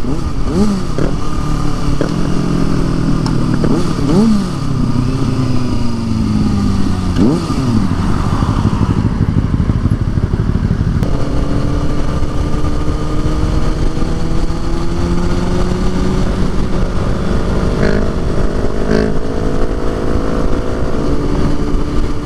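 Motorcycle engine under way. In the first eight seconds it accelerates, its pitch climbing and dropping several times as it shifts up through the gears, then it runs at a steady cruise with its pitch slowly rising.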